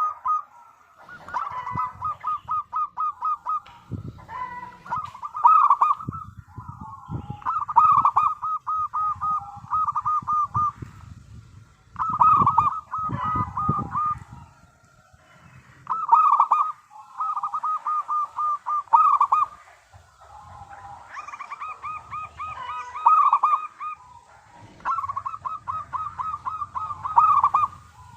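Zebra dove (perkutut) calling: phrase after phrase of rapid, repeated cooing notes, with short pauses between the phrases.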